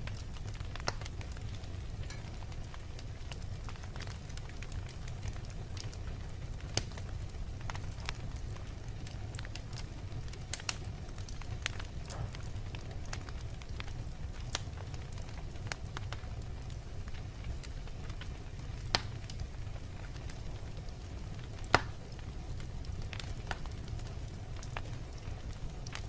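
Wood fire burning in a fireplace: a steady low rumble of flame with scattered sharp crackles and pops, the loudest about 19 and 22 seconds in.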